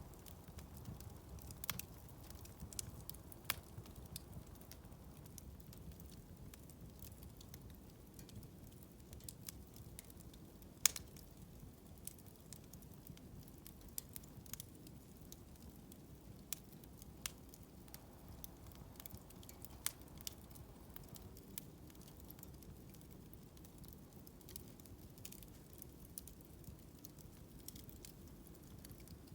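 Bonfire crackling, with scattered sharp pops over a low steady rumble; the loudest pop comes about eleven seconds in.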